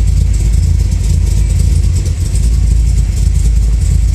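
Engine of a 2011 Camaro-based Z/TA Firebird custom idling: a steady low rumble heard from inside the cabin.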